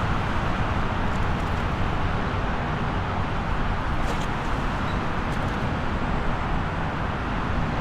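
Steady highway traffic: a continuous rush of tyres and engines with no single vehicle standing out.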